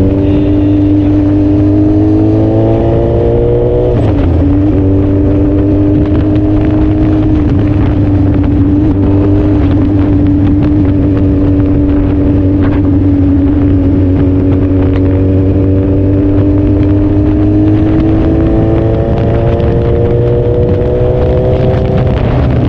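Suzuki Hayabusa's inline-four engine under way: the pitch rises for the first few seconds, drops at a gear change about four seconds in, then holds fairly steady at cruise. It climbs again in the last few seconds into another shift. A heavy low wind rumble on the microphone runs under it.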